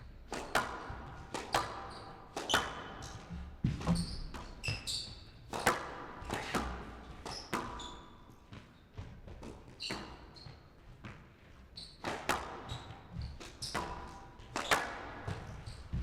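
Squash rally: the rubber ball struck by rackets and smacking off the court walls in sharp cracks about once a second, with short high squeaks of players' shoes on the court floor.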